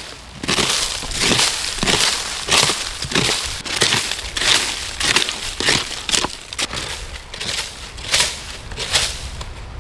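Dry sticks and leaf litter crunching and snapping in an irregular series of crunches, about one or two a second, as dead wood is broken or trodden on.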